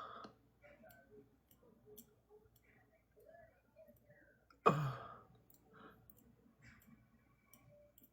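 Faint scattered clicks, and one short, sudden sigh from a person about five seconds in.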